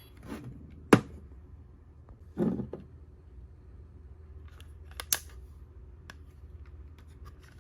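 A few sharp plastic clicks and a brief rustle from handling a DX progrise key toy.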